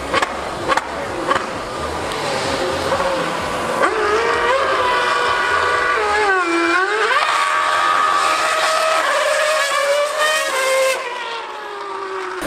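A 2013 Formula 1 car's 2.4-litre V8 screaming at high revs, its pitch climbing through the gears. About halfway through the note drops sharply, as on a downshift, then climbs again before fading near the end.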